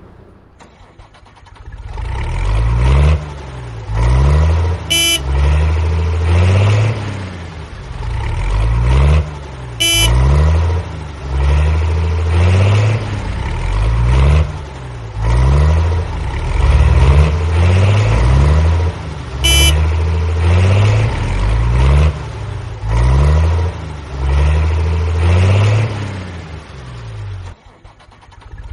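Cartoon vehicle engine sound effect rising and falling in repeated surges, with a short horn toot three times.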